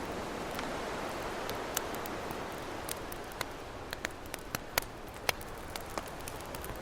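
Campfire crackling with scattered sharp pops, several a second, over the steady wash of ocean waves. The surf swells a little in the first few seconds.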